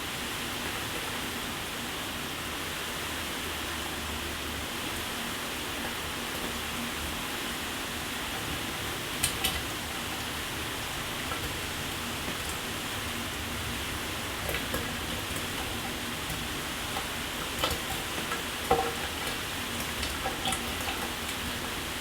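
Shower water spraying steadily, making an even hiss. A few sharp ticks of falling drops stand out from it, about halfway through and again in the last third.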